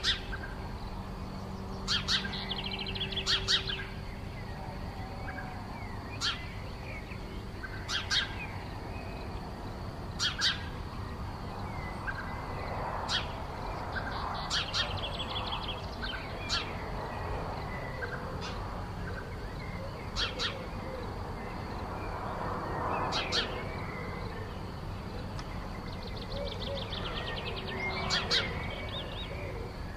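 Birds calling: short, sharp calls about every two seconds, some running into quick rattling trills, over a steady low background hum.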